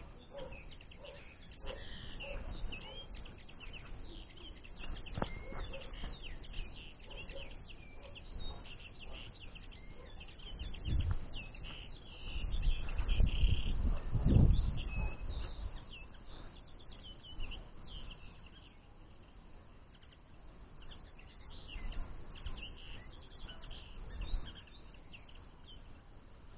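Small songbirds chirping and twittering in rapid, overlapping calls. A louder low rumble with a few thuds runs about halfway through.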